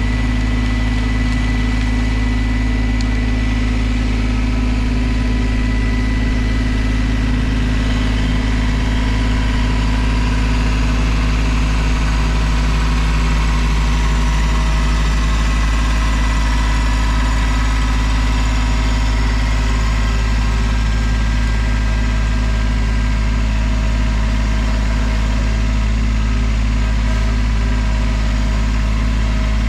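A large engine running steadily at an even speed, with no change in pitch.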